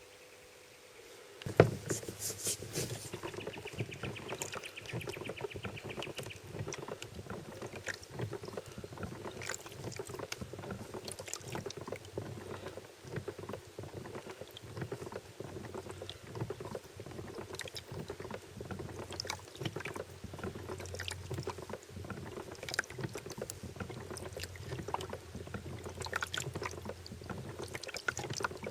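Small boat moving on water: steady water noise with many crackling clicks and knocks and a low hum, starting with a sharp knock about a second and a half in.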